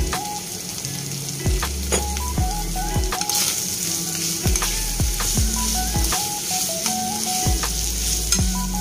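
Diced Spam, onion and ketchup sizzling in a nonstick frying pan while a metal spoon stirs them; the sizzle grows louder about three seconds in. Background music with a steady beat plays underneath.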